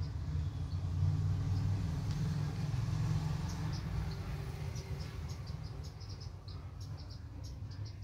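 Many short, high chirps from small birds, coming thicker in the second half, over a low steady rumble.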